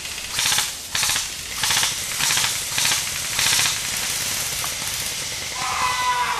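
Airsoft electric rifle firing short full-auto bursts, about six of them, each a rapid rattle of shots. A brief pitched sound follows near the end.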